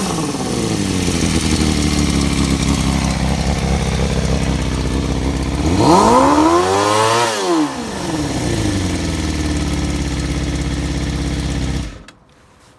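Suzuki GSX-R250 (GJ72A) 250 cc inline-four engine idling through a GP-type megaphone muffler. About six seconds in it is revved once, climbing and falling back to idle over about two seconds, and near the end it stops suddenly.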